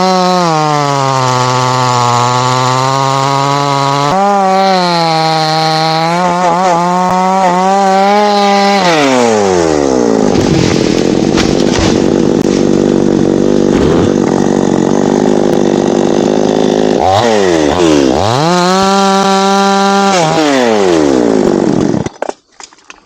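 Chainsaw running at high revs, its pitch then sinking and staying low as the chain bites into a teak trunk under load. It revs back up briefly near the end and then stops abruptly.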